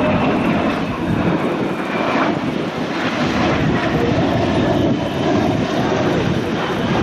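Jet engine roar of an F-22 Raptor and F-35A Lightning II flying past together: a loud, steady rush of jet noise with a faint high whine that falls slowly in pitch.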